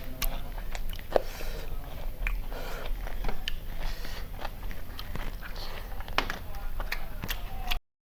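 People chewing and eating chicken biryani, with many small wet clicks and crunches. The sound stops abruptly near the end.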